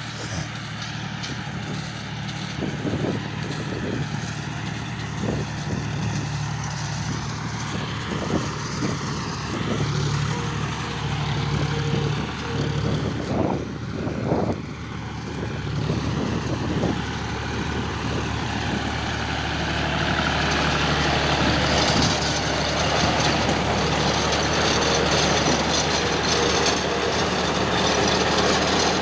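John Deere 5042D tractor's three-cylinder diesel engine running steadily while driving a baler, with irregular knocks from the machinery through the first half. The sound grows louder and rougher from about two-thirds of the way in.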